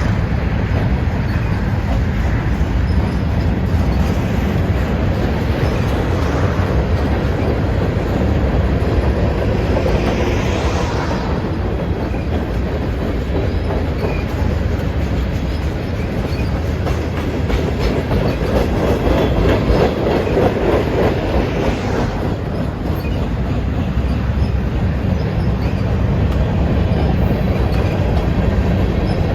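A freight train's cars rolling past on the rails: a steady, continuous rumble of wheels on track.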